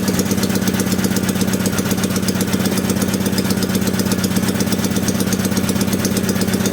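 Honda GX200 clone single-cylinder four-stroke engine running steadily at a constant speed, with a fast, even pulsing beat.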